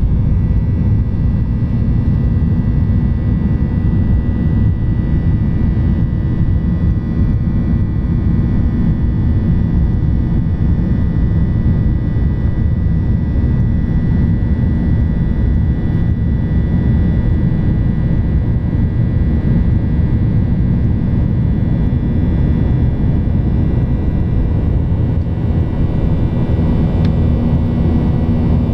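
Jet airliner's engines: a steady, loud, low drone with a few faint steady whining tones above it, unchanging throughout.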